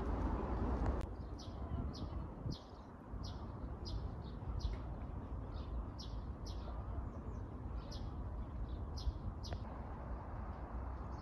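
Small birds chirping, a run of short high chirps about twice a second, over a steady low rumble. A louder hiss cuts off about a second in, where the chirping begins.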